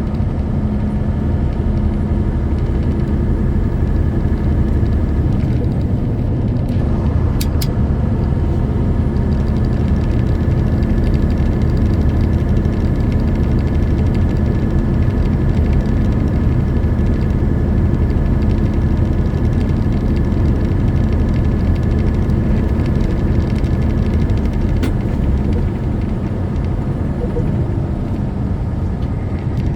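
Semi truck driving at a steady pace, its diesel engine and road noise making a continuous low rumble with a steady engine hum. A few faint clicks come about seven seconds in and again later.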